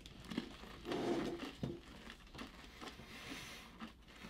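Faint crunching and clicking of M&M's candy shells being chewed.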